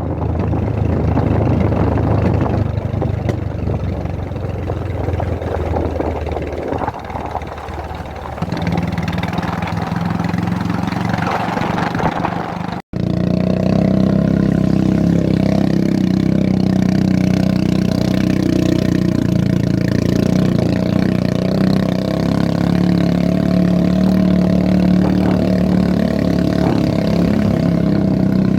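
Motorcycle engine running as the bike is ridden. The sound drops out for an instant a little under halfway through, then the engine runs on steadily.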